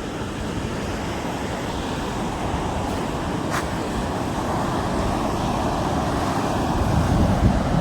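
Wind buffeting a smartphone microphone over the rush of rough sea surf, the gusts growing stronger near the end.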